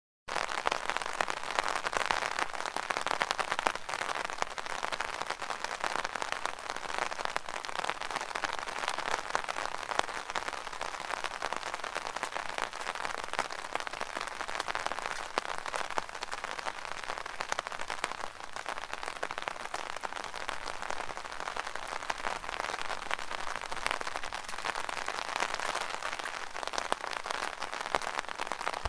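Steady heavy rain pattering on an umbrella canopy, a dense crackle of many small drop impacts that starts suddenly just after the beginning.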